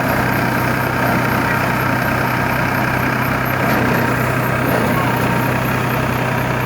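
New Holland tractor's diesel engine running steadily at an even pitch.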